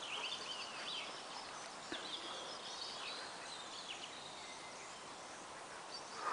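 Faint birdsong: small birds chirping, with a quick run of short repeated high notes at the start and then scattered varied calls, over a soft outdoor background hiss.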